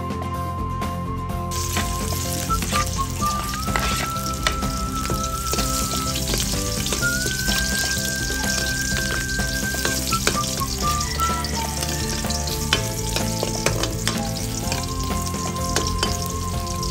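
Chopped garlic sizzling in hot oil in a steel wok, stirred with a metal ladle that clinks against the pan now and then. The sizzling picks up about a second and a half in. Background music plays underneath.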